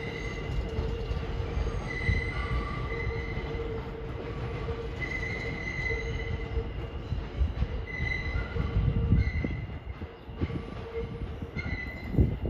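New York City subway train moving along the track with a low rumble and metal wheels squealing against the rails in recurring high-pitched squeals, typical of flange squeal on curved track. A sharp clank comes near the end.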